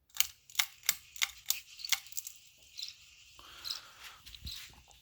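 Canarm Twister ceiling fan running on low, its motor giving a run of sharp squeaks, about three a second at first and then sparser. The squeak is the motor rubbing on its housing because the fan is resting on the floor, not bearing noise.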